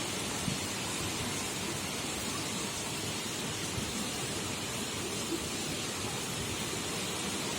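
Heavy rain pouring steadily in strong wind, a dense, even hiss with small patters in it.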